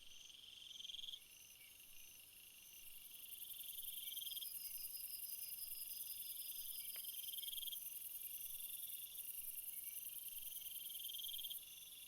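Several crickets and other insects chirping together in a summer field: repeated pulsing phrases about a second long, over a very high, steady trill that swells a few seconds in and drops off near the end.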